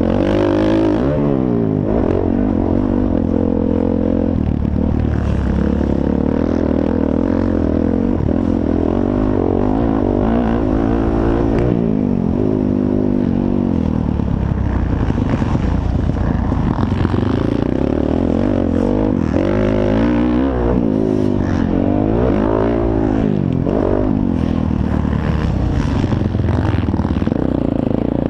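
Several motocross dirt bikes racing, their engines overlapping and revving up and down again and again.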